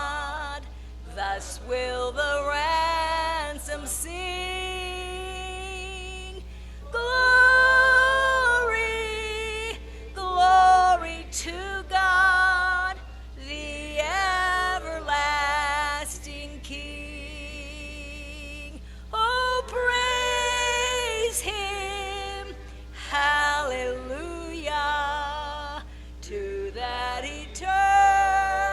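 A woman singing a slow song, holding notes with vibrato in phrases broken by short pauses, over a steady low hum.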